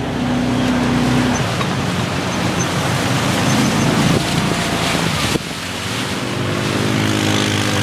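Off-road vehicle engine revving hard as its tyres churn through a deep mud puddle, with heavy splashing of mud and water. Near the end the engine note climbs as it revs higher while fighting to keep from getting stuck.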